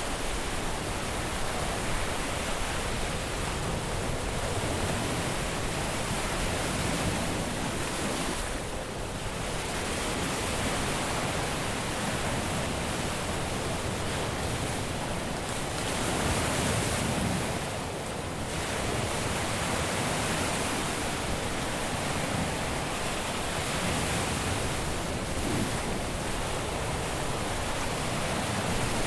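Caribbean surf washing onto a beach, a continuous rush of breaking waves that eases slightly twice, about nine seconds in and again near eighteen seconds.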